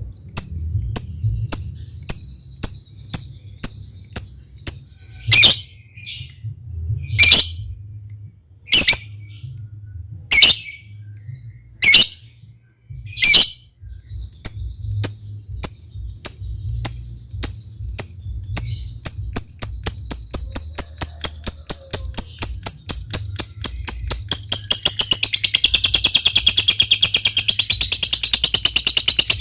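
Lovebird giving short sharp ticking calls about one and a half times a second, with a few louder, harsher calls between them. The ticks quicken after about 18 s and run into a long, fast, high chattering trill from about 25 s: the long 'ngekek' of a lovebird in full song. A low hum runs underneath.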